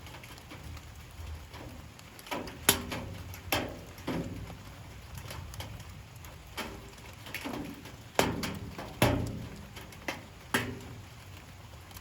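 Light rain, with large drops landing irregularly as sharp plinks that ring briefly, about ten in a few seconds over a soft steady hiss. The loudest plinks come near three seconds in and twice around eight to nine seconds.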